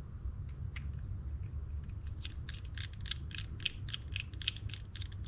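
Small sharp clicks of metal hand tools on the parts of a Shimano Stella FE spinning reel being taken apart: a few scattered clicks, then a quick run at about five a second from about two seconds in.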